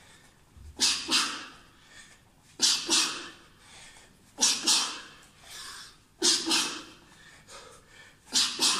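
A man's sharp, hissing exhalations, about every two seconds and each a quick pair: the breath a boxer forces out with each punch of a two-punch combination.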